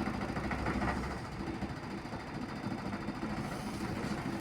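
Low rumble of heavy construction machinery passing close by, heard through the house, with a fast steady rattle of kitchen objects shaken by the vibration. It eases slightly toward the end.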